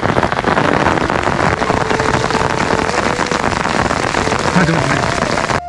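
Heavy rain falling steadily and hard on surfaces, a dense, constant patter.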